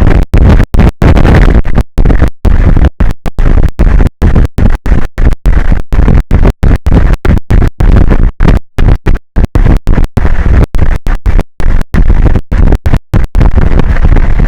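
Loud, distorted wind buffeting an exposed outdoor camera microphone, a rumbling noise strongest in the lows, chopped many times a second by sudden brief dropouts in the audio.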